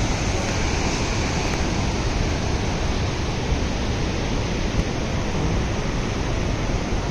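Swollen, flooding mountain stream rushing past in a steady, dense roar of water.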